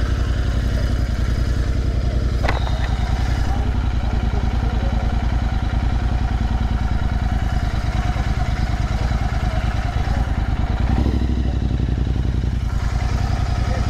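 Motorcycle engine running at low revs with a steady, even pulse, with one sharp click about two and a half seconds in.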